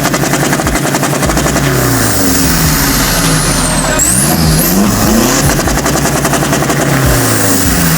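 Car engines revving at a car meet, loud and continuous, their pitch climbing and falling again and again.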